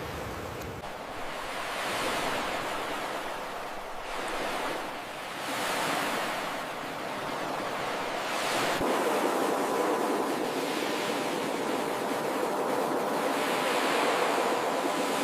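Ocean surf: waves breaking and washing ashore in a steady hiss that swells and ebbs every few seconds.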